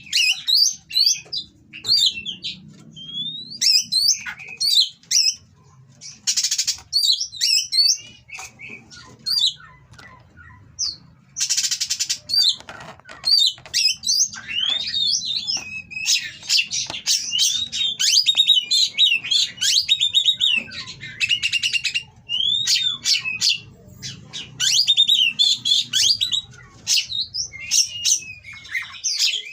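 Oriental magpie-robin (kacer) singing in a fast, varied stream of whistled notes and chirps, broken by a few short, harsh rattling phrases.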